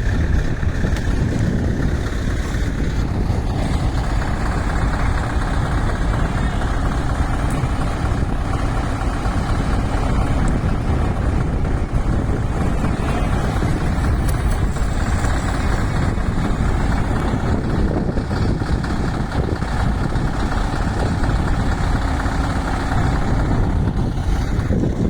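Scania V8 diesel truck engine running steadily at a low, even pitch.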